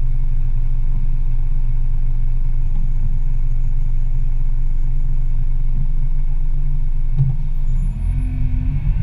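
Car engine idling, heard as a steady low rumble while stopped at a traffic light. About eight seconds in the rumble gets heavier and uneven as the car starts to pull away.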